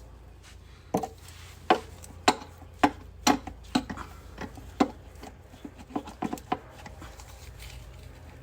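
A dozen or so sharp, irregular taps and knocks over about six seconds as a new transmission seal is worked and tapped into place by hand and tool.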